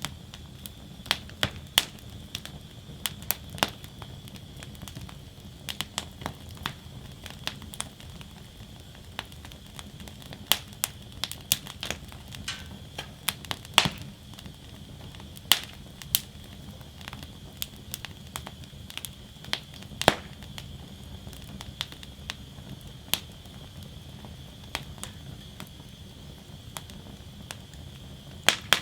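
Wood fire burning in a steel fire basket, crackling and popping irregularly over a steady low rumble, with a few louder sharp pops.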